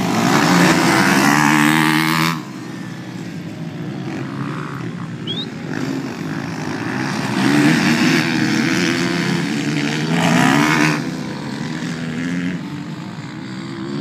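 Motocross dirt bike engines revving and running past. They are loud and close for about the first two seconds, cut back suddenly, then build again from about seven seconds in and fade after about eleven seconds.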